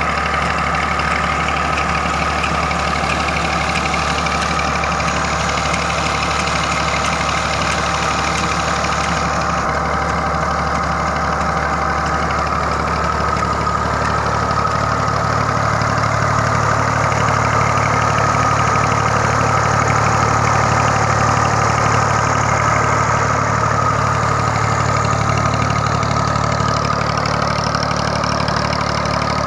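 Tractor's diesel engine running steadily while driving a pump that draws water from a 500 ft bore. It gets a little louder about halfway through.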